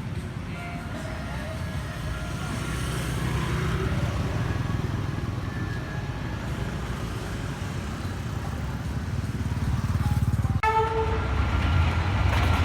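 Approaching diesel freight train rumbling, growing steadily louder, with a short blast of the locomotive's horn about ten and a half seconds in.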